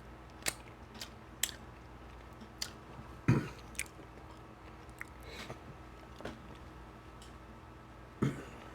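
A person chewing food close to the microphone: scattered wet mouth smacks and clicks, a few to the second at most, the loudest about a third of the way in and another near the end.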